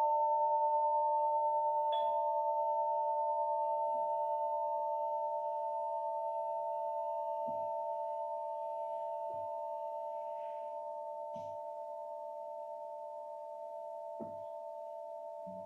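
A singing bowl rings on after being struck, a few steady blended tones with a slight waver, slowly fading. Several faint soft knocks sound underneath.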